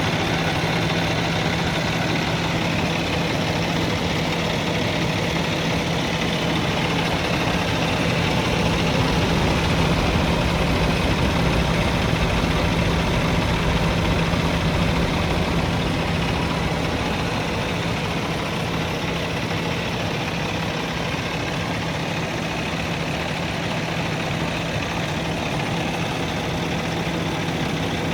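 Cummins ISX 600 hp inline-six diesel in a Kenworth W900 truck idling steadily, a little louder for a few seconds around the middle.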